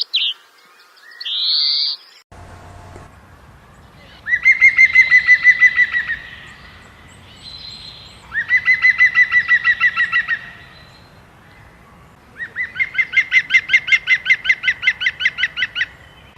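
A bird calling in rapid trills of about ten notes a second, three of them, each two to three seconds long, with shorter higher calls in the first two seconds.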